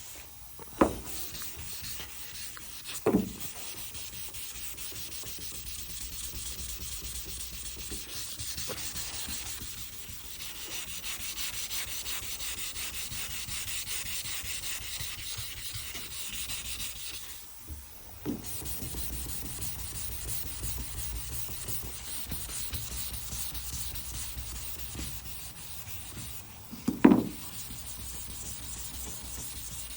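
Sandpaper rubbing steadily over freshly sprayed primer on a truck body panel, block-sanding the repair flat. A few sharp knocks break in, the loudest near the end.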